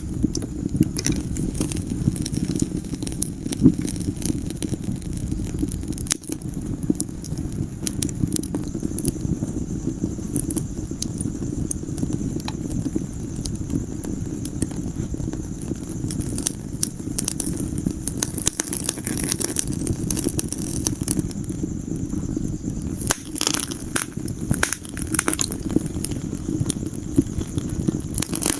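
Wood fire burning in a fireplace: a steady low rumble of flames with frequent sharp crackles and pops, which come thicker near the end.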